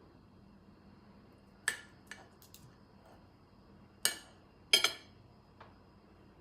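Cutlery clinking against a plate: about six sharp clinks, the loudest two a little past the middle, each with a short ring.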